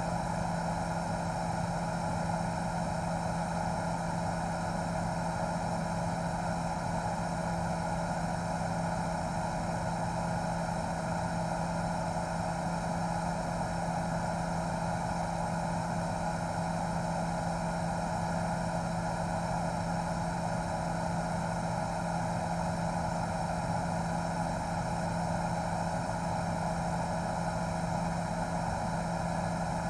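A news helicopter in flight, heard from on board: a steady, unchanging engine and rotor drone with several constant humming tones.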